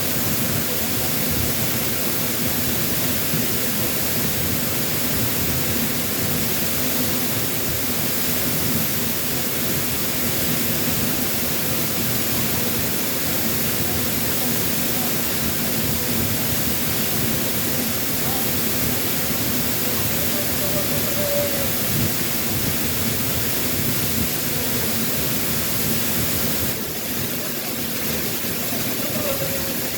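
Waterfall after a typhoon pouring in a steady, loud rush of noise, dipping slightly near the end.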